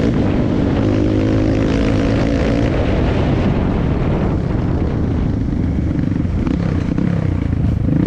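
Dirt bike engine running at a steady pitch, then easing off and revving up and down near the end.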